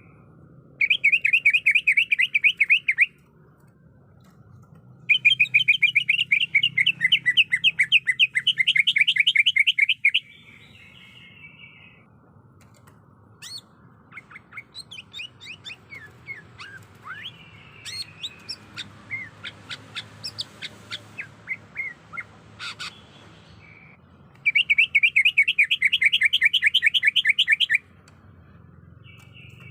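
Greater green leafbird (cucak ijo) calling, the kind of call used as a lure to provoke a male into singing. There are three rapid, buzzy trills of a few seconds each. Between the second and third comes a long run of separate sharp chirps.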